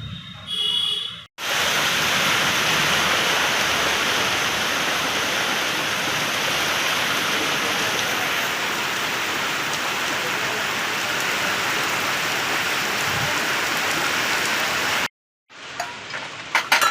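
Steady rain falling, a dense even hiss of drops that starts abruptly about a second in and cuts off abruptly near the end.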